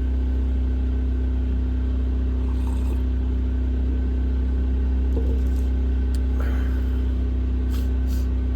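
Portable generator running steadily: an even, low engine drone with a constant hum.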